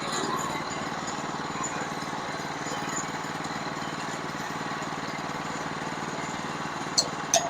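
Small engine of a sawmill running steadily, with two sharp clicks close together near the end.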